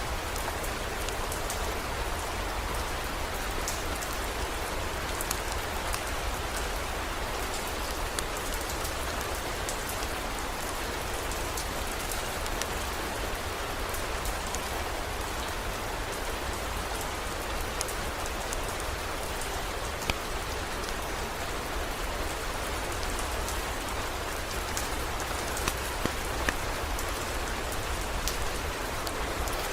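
Steady heavy rain: an even hiss sprinkled with sharp drop ticks, over a low steady rumble.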